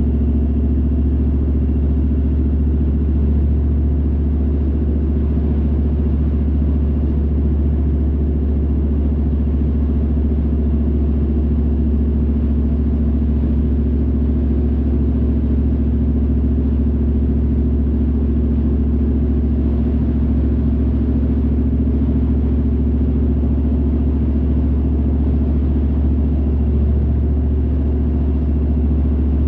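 Car driving at a steady pace: a constant low drone of engine and road rumble.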